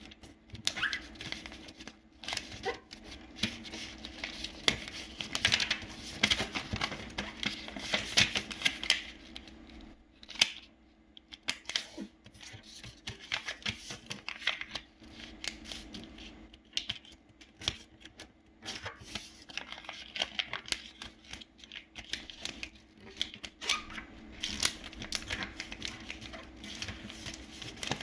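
A sheet of paper being folded and creased by hand: irregular rustling and crinkling with sharp little taps and clicks, pausing briefly about ten seconds in. A faint steady hum sits underneath.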